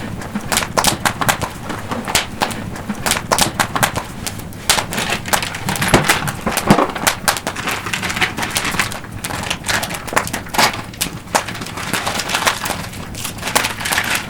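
Wood campfire crackling close up, with a dense, irregular run of sharp pops and snaps over a low steady rush of flame.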